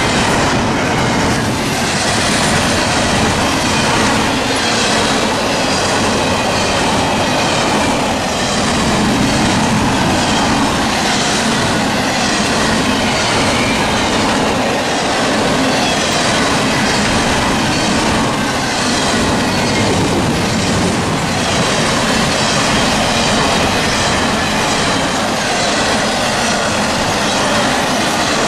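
CSX freight train rolling past, its cars' wheels clacking over rail joints in a regular rhythm over a steady, loud rumble.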